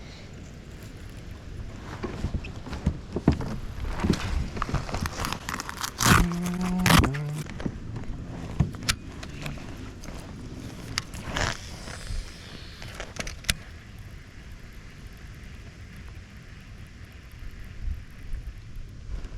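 Scattered clicks, rattles and knocks of gear being handled in a kayak. About six seconds in there is a short low hum, set between two louder knocks.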